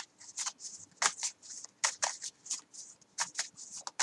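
A deck of tarot cards being shuffled by hand: a run of quick, irregular card flicks and slaps, about three a second.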